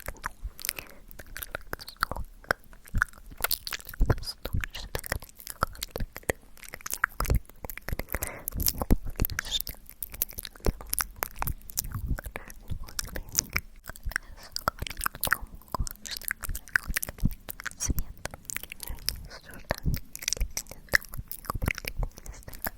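Close-miked ASMR mouth sounds: a dense, irregular stream of wet clicks and pops from the lips and tongue, recorded on a Tascam.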